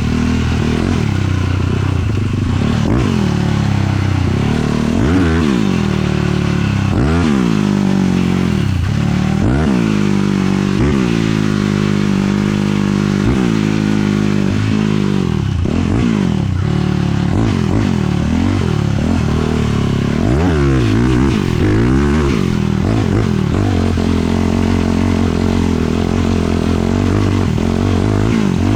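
450cc single-cylinder sport quad engine being ridden, revving up and down over and over with its pitch climbing and dropping every second or two, then holding a steady note for the last few seconds.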